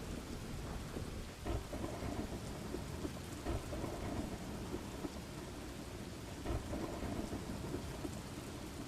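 Steady rain falling, with a low rumble of thunder underneath and a few sharper drop crackles.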